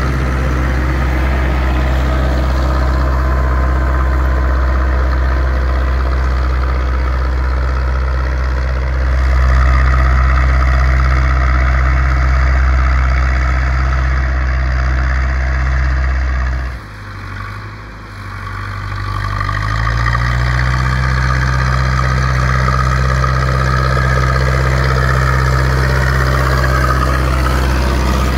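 Zetor 6245 tractor's four-cylinder diesel engine running steadily while plowing. About two-thirds of the way through the engine drops away sharply for a few seconds, then revs back up to a steady run.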